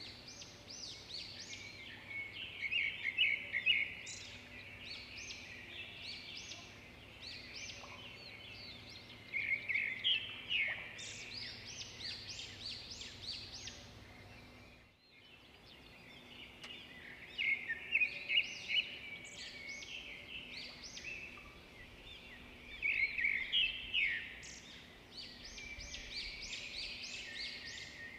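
Songbirds singing: recurring flurries of quick, high chirping phrases every few seconds over a faint steady background, with a brief dropout about halfway.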